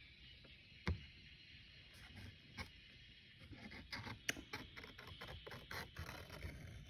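Faint quick taps and scratches of a drawing tool on paper, with one sharp click about a second in and a busier run of ticks between about four and six seconds in.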